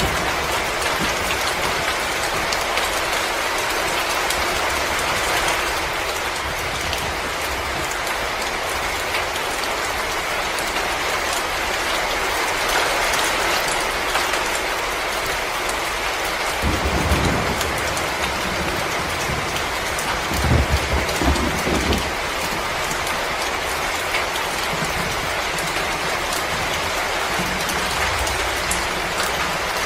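Wood fire crackling steadily: a dense run of small pops and snaps over a constant hiss, with a couple of short low rumbles a little past halfway.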